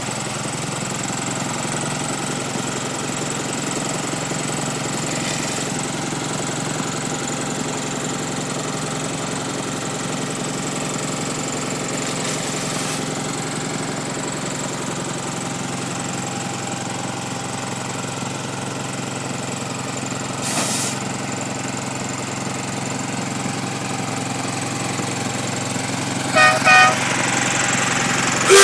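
Small lawnmower-type engine of a home-made miniature locomotive idling steadily. Near the end a whistle gives two short toots.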